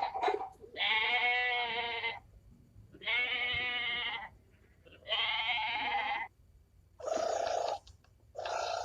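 Farm animal bleating: three long calls about a second apart, each quavering in pitch, then two shorter, rougher calls near the end.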